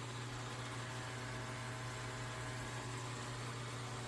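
Dreame L10s Ultra robot vacuum running steadily: a low motor hum with faint whining tones over the hiss of its suction fan.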